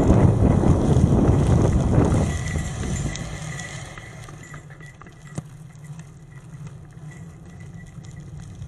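Wind buffeting the microphone and tyre rumble from a bicycle riding a forest road, loud at first and dying away between about two and three and a half seconds in as the bike slows. After that it is much quieter, with light scattered clicks and ticks.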